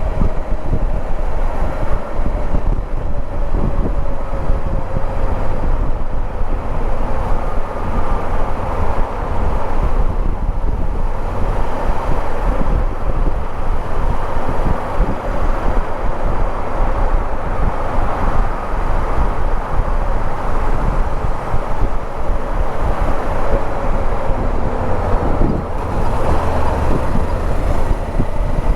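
Riding on a 2014 Honda CB500X, with steady wind rumble on the microphone over the running of its parallel-twin engine.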